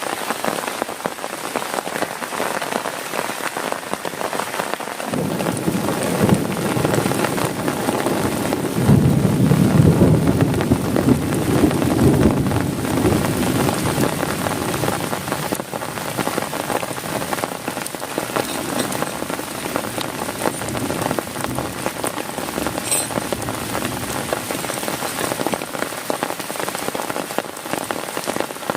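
Heavy rain pattering steadily on a tent, with a long roll of thunder that starts about five seconds in, is loudest around ten seconds and dies away a few seconds later.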